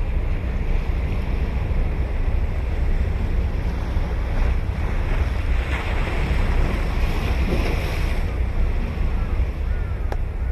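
Ocean surf breaking and washing onto the beach, swelling louder about halfway through, with wind rumbling on the microphone throughout. A single short click near the end.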